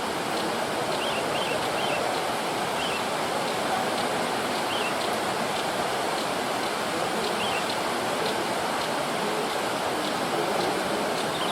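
Steady rush of water in the forest, with a few faint short bird chirps now and then over it.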